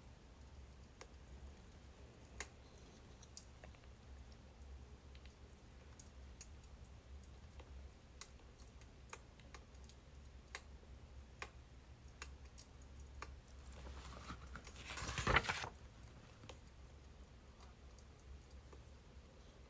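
Faint crackling of a burning birch-wood fire: scattered sharp pops and clicks over a low steady hum, with one louder rustling swell lasting about a second and a half near the three-quarter mark.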